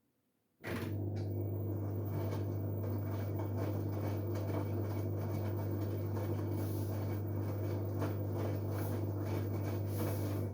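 LG Direct Drive washing machine taking in water through its inlet valve: a steady low hum with water rushing in. It switches on suddenly about a second in and cuts off abruptly near the end, a typical top-up fill during the wash.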